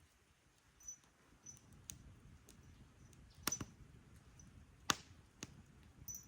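Scattered light clicks and knocks at irregular times, the two sharpest about three and a half and five seconds in, over a faint steady hiss.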